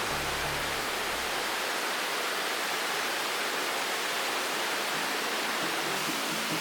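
Steady rush of flowing river water. Low background music fades out in the first second and a half and comes back near the end.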